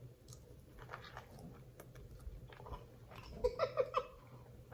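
Close-up mouth sounds of biting into and chewing sausage from a seafood boil: small wet clicks and crunches. A quick run of four short pitched sounds comes about three and a half seconds in.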